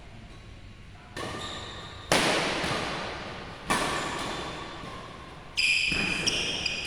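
Badminton rackets striking a shuttlecock in a rally, four sharp hits about one to two seconds apart, each echoing in a large hall. A high squeak sounds with the last hit.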